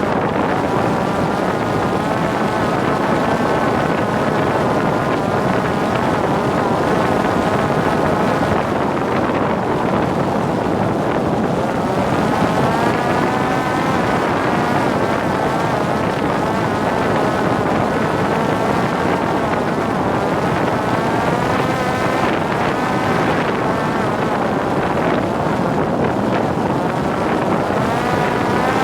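Parrot Disco drone's electric motor and pusher propeller whining, with its pitch wavering and climbing as the throttle changes, over a steady rush of wind on the onboard camera's microphone.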